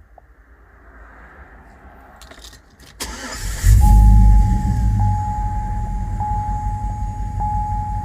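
2005 Chevrolet Tahoe's 5.3 L V8 cranks briefly about three seconds in, catches with a loud flare, and settles into a steady idle. It is a truck that keeps stalling, which the mechanic suspects is a cam or crank sensor fault. A steady high electronic tone with small regular breaks sounds over the idle.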